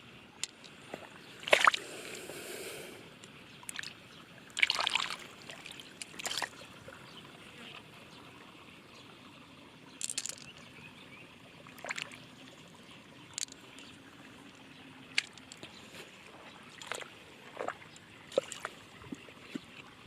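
Intermittent splashing and sloshing in shallow water, with scattered sharp clicks in between. The loudest splashes come about a second and a half in and again about five seconds in.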